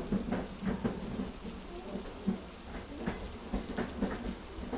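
Heavy rain pattering, with scattered irregular drop ticks over a steady low rumble.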